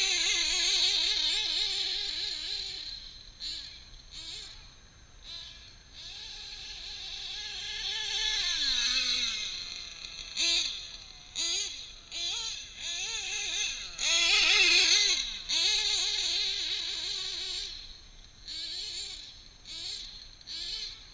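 Drag-modified Novarossi .28 nitro engine of a 1/7 scale RC truggy running under throttle: a high, wavering whine that swells and fades. The pitch falls steeply about eight seconds in, then come a string of short throttle blips and another long rev that winds down.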